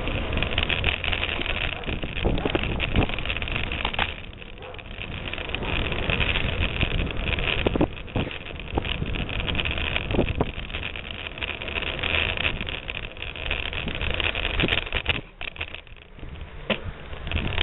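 Bicycle riding down a rough forest dirt track: wind rushing over the microphone and tyres rumbling on the ground, with frequent knocks and rattles from bumps. It eases off briefly twice.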